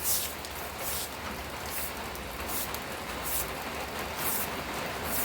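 Steady rain falling, with a short high hiss repeating about every second.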